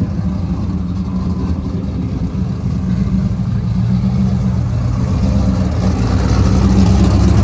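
A car engine running steadily, growing louder toward the end.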